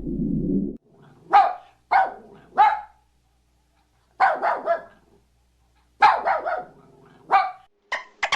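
Dog barking in short, sharp barks: three single barks about half a second apart, then a quick run of barks, then a few more near the end. It opens with the tail of a low drawn-out animal call that cuts off under a second in.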